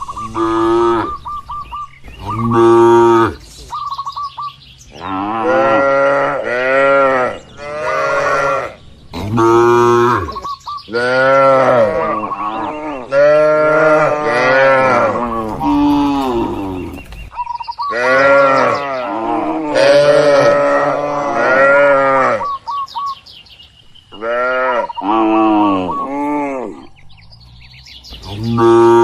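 Cattle mooing again and again, about a dozen long calls one after another. Each call rises and then falls in pitch, and some overlap, as from several animals.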